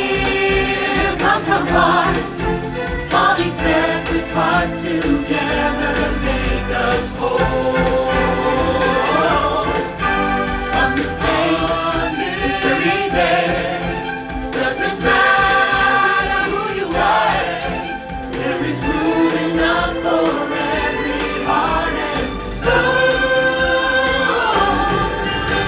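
Show music: a choir singing a melody in several voices over instrumental accompaniment.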